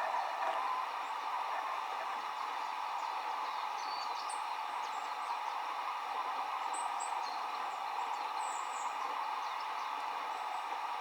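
Steady rush of running water at a mountain waterside, with brief high bird chirps dotted over it, a few around the middle and more toward the end.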